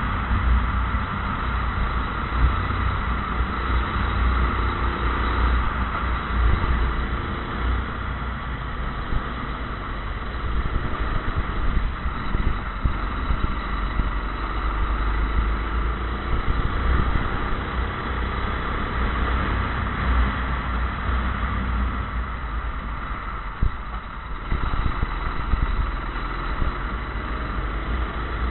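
Go-kart engine running, its pitch rising and falling with the throttle, over a heavy low rumble.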